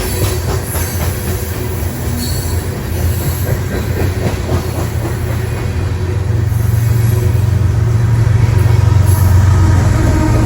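A train passing close by: a heavy low rumble with wheels clicking over the rails, growing louder in the second half.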